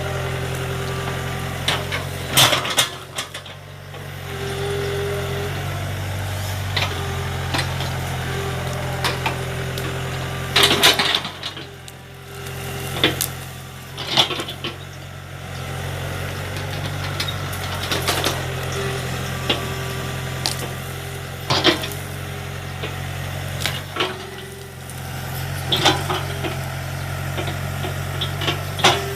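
Small excavator's diesel engine running steadily and dipping in level a few times as it works. Sharp cracking crashes come every few seconds as bamboo is broken and torn from the bank.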